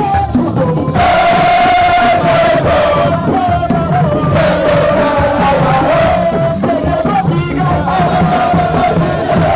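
A group of voices singing and chanting together in long held notes over loud, continuous music.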